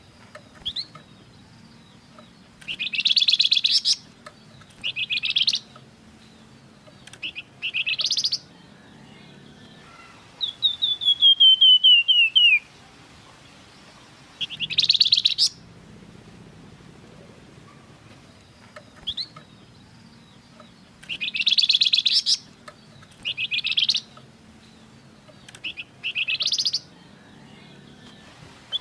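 Flamboyan songbird singing in repeated bursts of loud whistled phrases, each about a second long, with pauses between. About eleven seconds in comes a longer, loudest run of notes falling in pitch. A faint low hum sits beneath.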